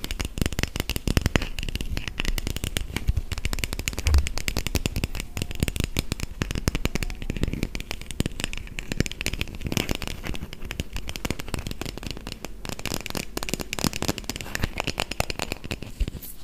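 Fast, continuous tapping and clicking on plastic toy food items.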